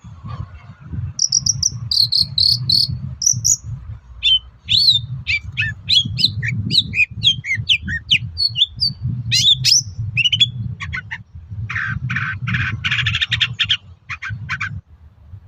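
Long-tailed shrike (cendet) singing a fast, varied song: high repeated notes, then quick whistled phrases, ending in a run of harsh rasping notes near the end. A low rumble runs underneath.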